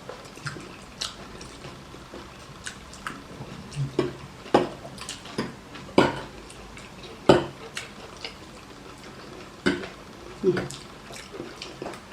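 Cutlery clinking and scraping against plates as several people eat, a scatter of irregular sharp clicks and knocks with a few duller thumps.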